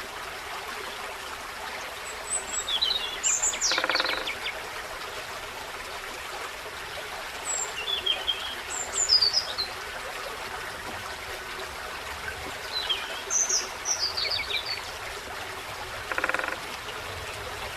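A forest stream runs steadily while small songbirds chirp and twitter in three short bouts. A brief buzzy rattle comes twice, once a few seconds in and once near the end.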